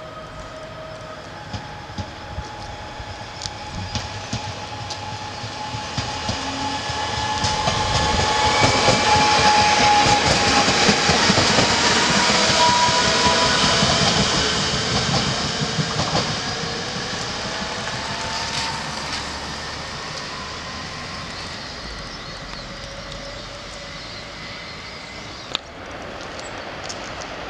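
Electric multiple unit passing: a rush of wheels on rail that builds, is loudest for several seconds, then fades away, with a whine of several tones that shift in pitch as it goes by.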